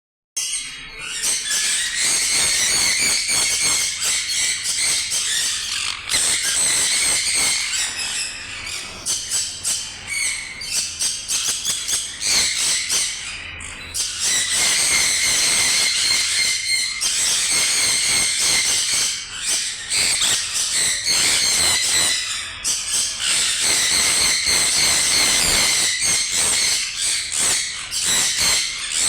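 Sun conure calling over and over, in long runs of high-pitched calls broken by short pauses.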